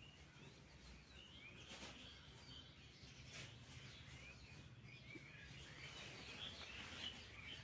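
Near silence with faint bird chirps repeating throughout, over a low steady hum.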